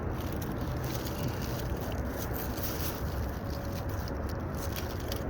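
Dirt being dug and scraped away by hand to uncover a shallow metal-detecting target, with scratchy rustling and crackling over a steady low rumble.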